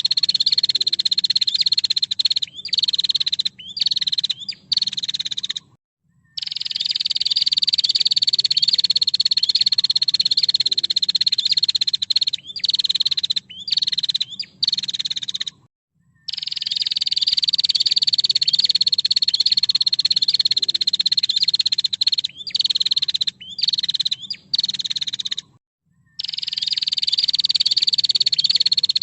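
Female prinia (prenjak) giving its fast, rattling trill call, high-pitched and almost unbroken. The same phrase recurs about every ten seconds: a long rattle that dips slightly in pitch at its start, then a few choppy stuttered calls, then a brief full silence.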